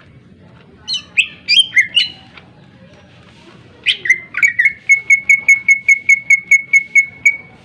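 Green leafbird (cucak ijo) singing: a short run of varied sharp, ringing notes, then, about four seconds in, a fast string of about fifteen identical sharp chips, about five a second.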